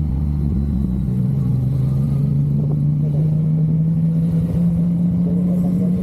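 Yamaha MT-09's three-cylinder engine running steadily under way, its pitch climbing slowly as the bike gathers speed.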